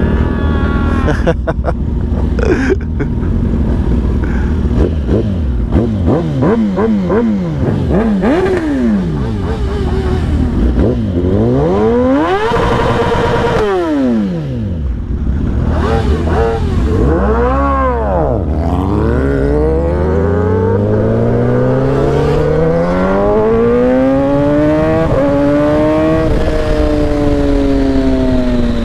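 Sportbike engines revving hard, pitch sweeping up and down again and again with overlapping engines in the first half. Later one engine pulls up in a long rising climb and then falls away near the end as it comes off the throttle.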